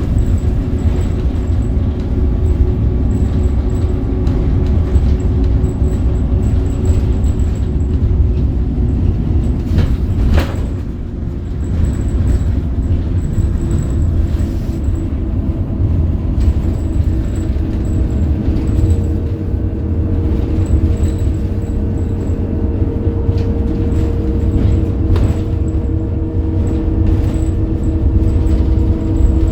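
Scania K270UB bus's DC9 five-cylinder diesel (270 hp) and ZF Ecomat automatic gearbox running, a dense low rumble with a whine that climbs slowly through the second half. There is a short dip in loudness with a click about ten seconds in.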